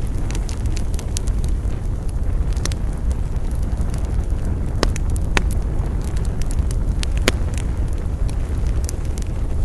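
Wood campfire burning: scattered sharp crackles and pops over a steady low rumble, with a few louder snaps about five and seven seconds in.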